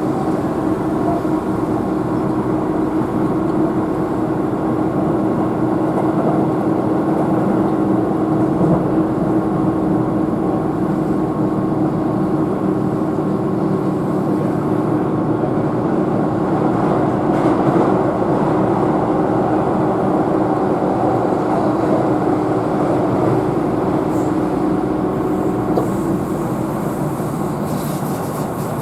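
Keihan electric train running at speed, heard from inside the passenger car: a steady rumble of wheels on rail with a constant motor hum, which drops away shortly before the end.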